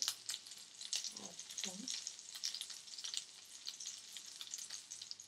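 Flour-coated mince cutlet frying in oil in a frying pan: a steady sizzle with many small crackling pops.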